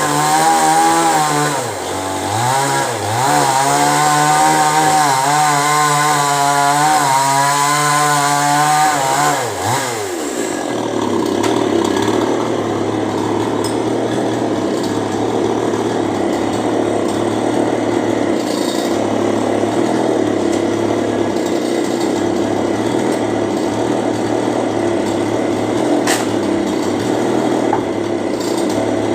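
Chainsaw engine running at high revs with a wavering pitch, then dropping in a falling glide to idle about ten seconds in and idling steadily for the rest.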